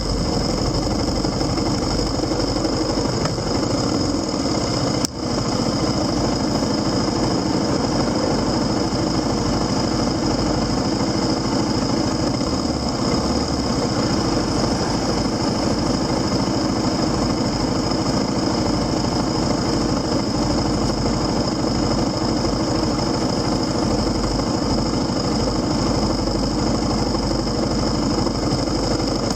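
Motorcycle engine running steadily, with a constant hum and a high whine. A single short click with a brief drop in level about five seconds in.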